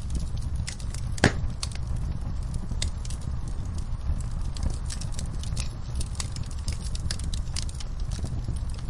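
Fire crackling: irregular sharp pops and snaps over a steady low rumble, with one louder pop about a second in.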